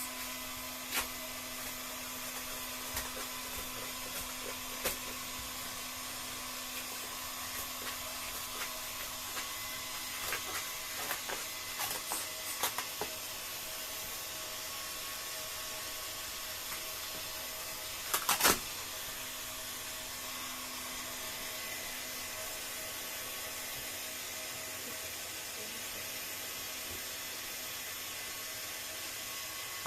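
An electric air blower runs with a steady hiss and a low hum that fades out and back in. Light clicks and knocks from handling the work are scattered through it, with a short burst of louder knocks about 18 seconds in.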